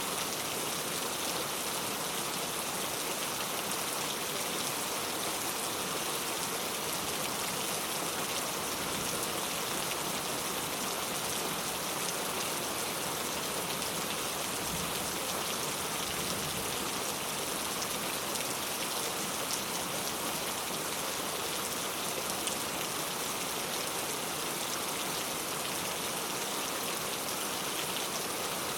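Heavy rain falling steadily, an even hiss of countless drops on surfaces.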